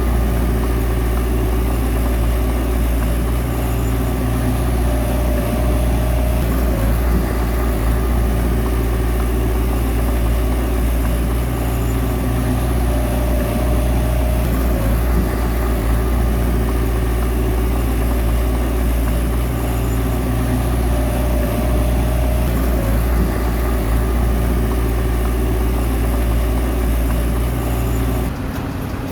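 Bulldozer's diesel engine running steadily, with a dip in level just before the end.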